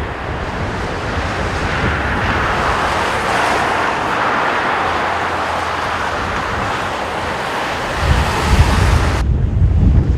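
Jet airliner engine noise swelling and fading in strong wind. From about eight seconds in, gusts buffet the microphone with a heavy low rumble.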